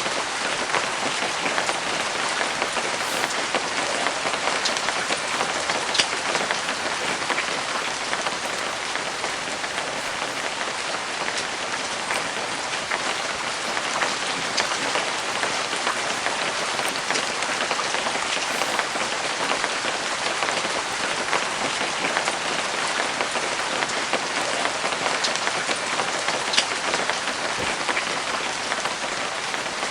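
Steady light rain falling, with scattered individual drops ticking through it.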